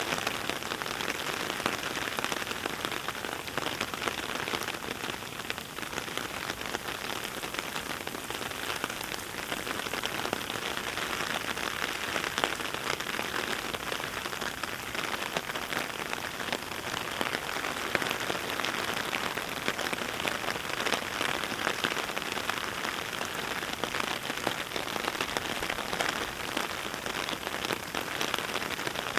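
Heavy rain falling steadily: a dense, even patter of countless drops striking the ground with many sharp little ticks.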